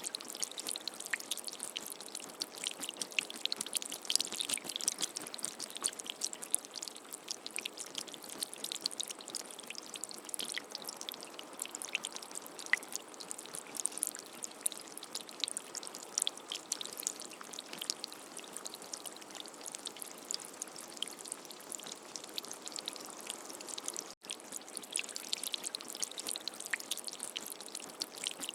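Heavy rain: a steady hiss with many small drips and splashes. It cuts out for an instant about three-quarters of the way through.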